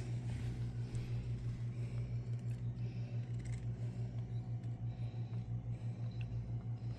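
Top-load washing machine's drain pump motor humming steadily, with a fast, even pulsing flutter of about seven beats a second.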